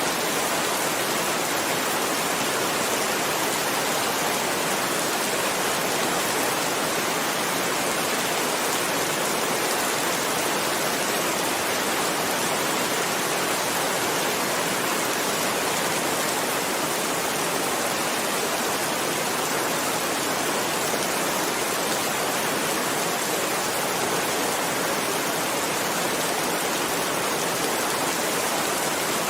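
Rain falling steadily, an even hiss with no break or change.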